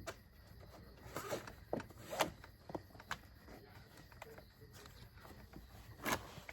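Handling noise from a child's car seat being reassembled: a scattering of short scrapes, rustles and clicks from its fabric cover, straps and plastic shell.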